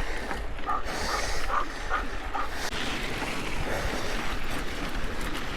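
A dog whining in short high yelps, several in the first two and a half seconds, over a steady rushing noise.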